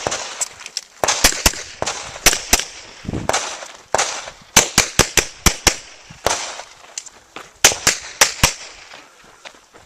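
Rapid pistol fire during a USPSA stage: sharp gunshots, many of them in quick pairs and short strings, with brief gaps between, thinning out near the end.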